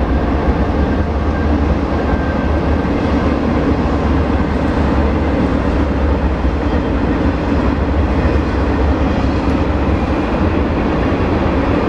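Freight train of empty coal hopper cars rolling past close by: a loud, steady rumble and rattle of wheels and car bodies on the rails.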